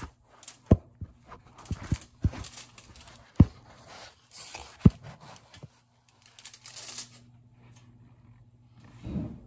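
Close-miked chewing of a cornstarch brick: several sharp crunches in the first five seconds with softer chewing between, tapering off, over a steady low hum.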